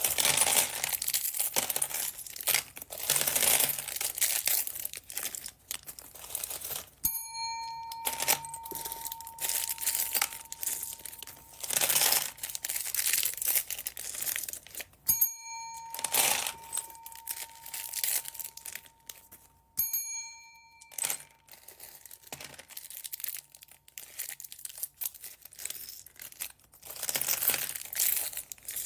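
Plastic bags crinkling and rustling as bagged beads and charms are handled and torn open. A clear bell-like ding rings out three times, about seven, fifteen and twenty seconds in.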